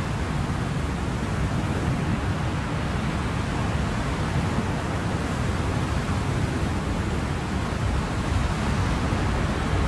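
Ocean surf: a steady, unbroken rushing noise, deepest in the low range, with no single wave breaks standing out.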